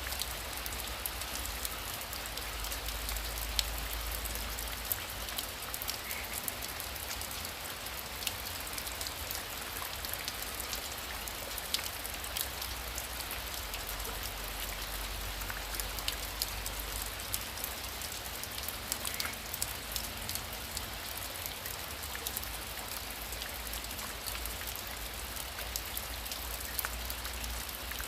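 Heavy rain falling steadily, with the ticks of single drops landing close by over an even hiss and a low rumble underneath.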